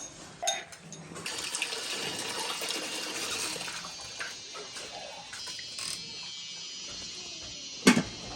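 Water running and splashing, as from a tap or a poured stream. One sharp knock near the end is the loudest sound.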